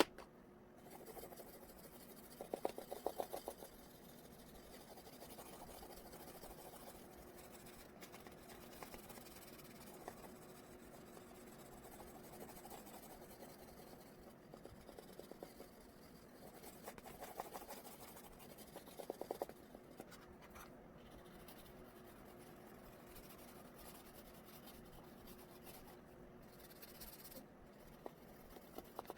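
Oil pastel rubbing and scratching across paper in quiet drawing strokes. Two short bursts of quick back-and-forth scribbling, a few seconds in and again past the middle, are the loudest moments.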